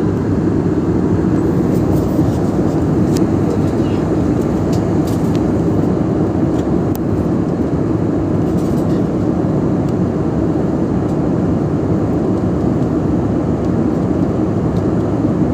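Steady cabin noise of a jet airliner in flight: an even, low rushing of engine and airflow noise heard from inside the passenger cabin, with a few faint clicks.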